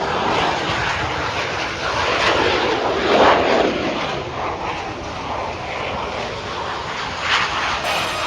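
Jet aircraft engine noise, a steady roar that swells to its loudest about three seconds in and then eases off.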